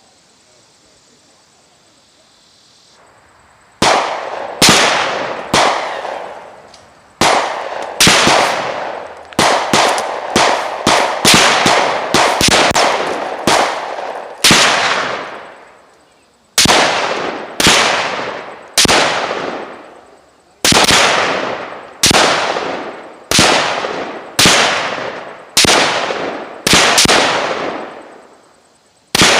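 A string of about two dozen rifle shots, fired irregularly at roughly one a second, starting about four seconds in; each crack rings out with a long echoing tail.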